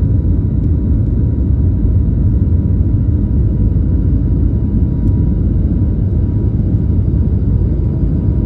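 An airliner's engines at takeoff power: a loud, steady rumble with a faint steady high tone above it.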